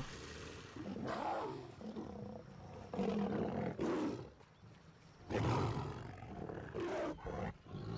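Lions growling, a series of rough growls coming in bouts a second or two apart.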